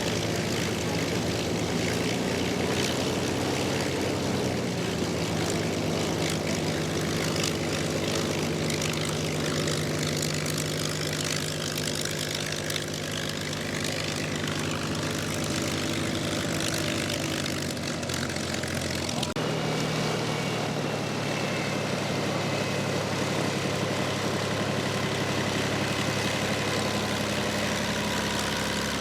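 Piston engine of a WWII propeller warbird running with a steady drone. The sound changes abruptly about 19 seconds in, then carries on steadily.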